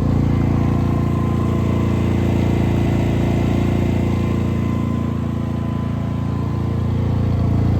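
Portable generator's engine running steadily at a constant speed.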